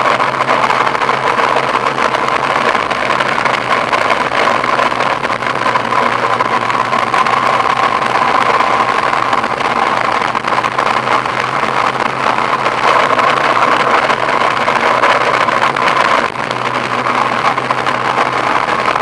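Car engine running steadily under a constant haze of road noise, with a brief dip about 16 seconds in.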